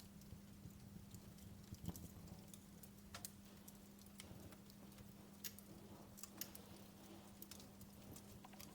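Wood fire in a fireplace crackling: faint, irregular pops and snaps, with a few sharper cracks standing out.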